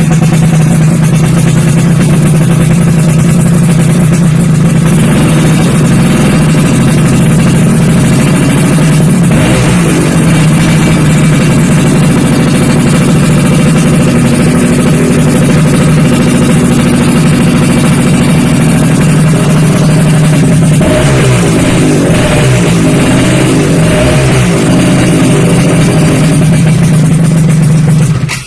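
Yamaha F1ZR two-stroke engine running loudly through an aftermarket WRS chrome exhaust, mostly holding a steady idle, with short throttle blips about 5 and 9 seconds in and a series of revs from about 21 to 24 seconds in.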